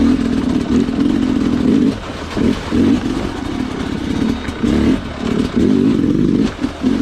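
Sherco two-stroke dirt bike engine revving in short repeated bursts as the throttle is opened and closed.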